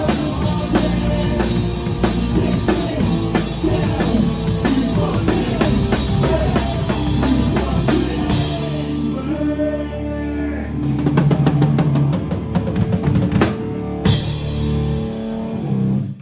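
Rock band playing a song on drum kit, bass and guitar, with a run of quick drum hits in the last few seconds. The song ends abruptly.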